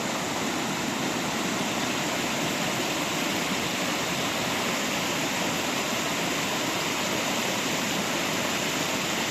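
Rushing water running steadily, an even hiss with no breaks.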